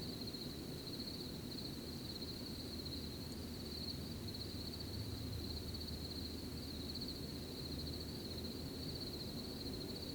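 Crickets chirping in a steady high, pulsing trill over a low rustling background hum.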